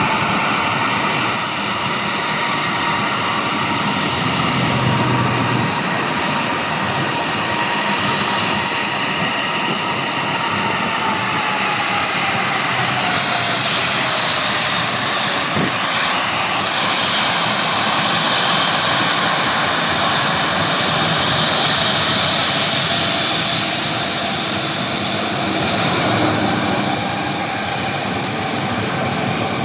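An airliner's turbine engines running loud and steady as it passes close by. Whining tones in the engine noise drop in pitch about halfway through as the aircraft goes past.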